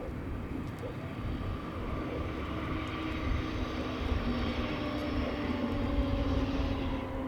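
KORAIL 7600-series diesel-electric locomotive running with a train, its diesel engine giving a steady drone over a low rumble; the engine hum steps up a little in pitch about halfway through.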